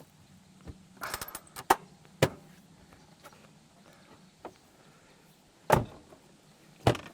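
A run of clicks and clunks as a camp fridge is shut and latched, with two louder slams near the end, a little over a second apart.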